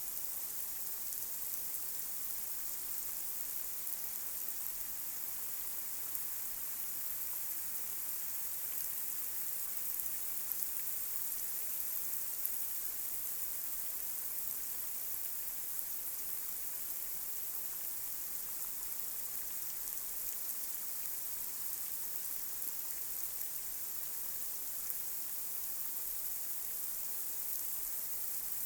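Light rain falling on a street: a steady, high hiss with a few louder individual drops standing out now and then.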